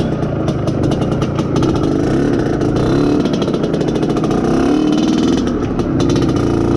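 Izh Planeta Sport's 350 cc single-cylinder two-stroke engine running under way while being run in, its revs rising and falling.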